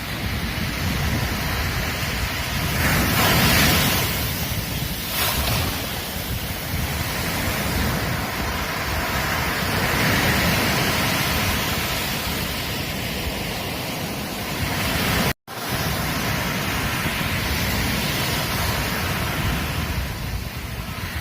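Ocean surf: waves breaking and washing up a beach, a continuous wash that swells louder about three and ten seconds in. The sound cuts out completely for an instant about fifteen seconds in.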